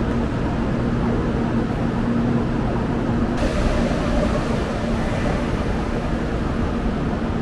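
Steady low hum and rumble of Shinkansen bullet trains at a station platform, with a steady low tone running underneath.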